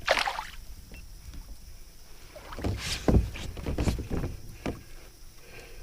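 Water splashing and knocks against a kayak as a hooked chain pickerel is worked alongside: a splash at the start, then a cluster of short splashes and thumps in the middle.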